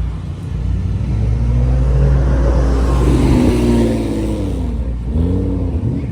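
Aston Martin Vantage AMR GT3 Evo race car engine running, revved up from about two seconds in and dropping back near five seconds, with a short second blip just after.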